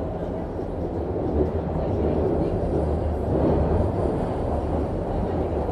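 Subway train running between stations, heard from inside the car: a steady, dense rumble of wheels on rail and running gear.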